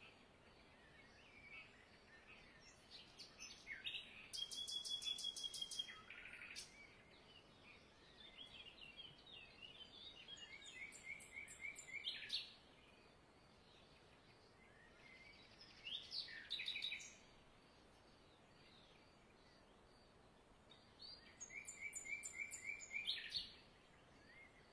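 Songbirds calling in several separate bouts of quick chirps and trills, each a second or a few seconds long, with quiet stretches of faint background hiss between them.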